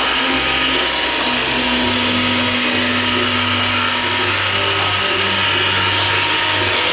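iRobot Roomba 560 robotic vacuum running, its vacuum motor and brushes giving a steady whir.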